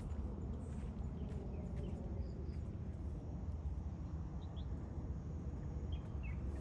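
Outdoor ambience: a steady low rumble with a few faint, brief high bird chirps scattered through it.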